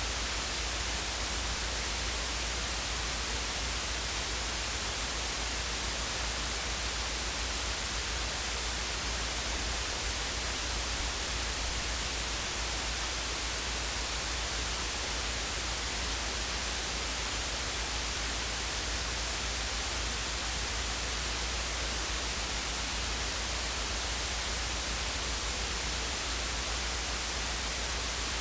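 Steady, unbroken hiss with a low rumble beneath it, the noise inside a Luscombe light aircraft's cockpit in flight.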